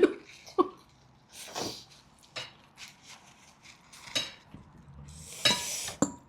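Scattered clinks and clicks of cutlery against dishes during a meal, with a few short noisy bursts of eating, the strongest about five and a half seconds in.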